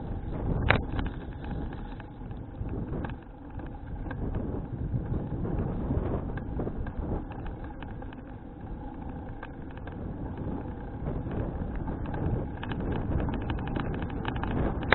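Wind rushing over an action camera's microphone on a moving bicycle, a steady low rumbling noise. A few sharp clicks or rattles cut through it, the clearest about a second in and another at the very end.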